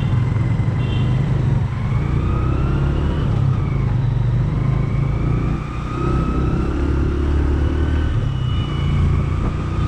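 Hero Glamour 125 cc single-cylinder motorcycle engine running steadily while riding on the road, a loud low rumble mixed with wind noise on the helmet-mounted action camera's microphone.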